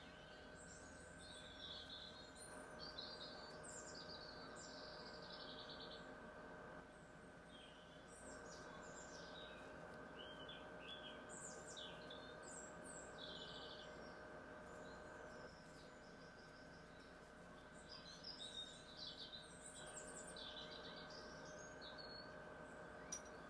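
Faint birdsong: several birds chirping and trilling in short bouts, over a steady faint hum.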